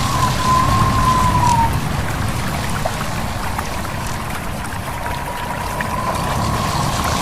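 A stream babbling and trickling, with wind over a steady low rumble. A thin, steady whistling tone sounds through the first second or so and comes back near the end.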